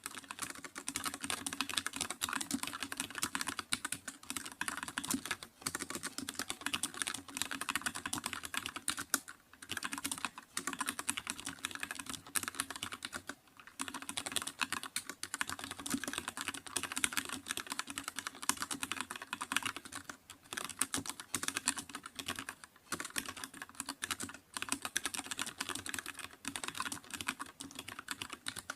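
Computer keyboard being typed on quickly and continuously, a dense stream of key clicks broken by short pauses every few seconds.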